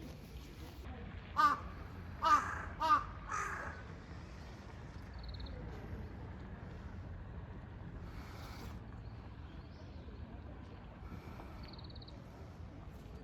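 A crow cawing four times in quick succession, about a second in, over a steady low wind rumble.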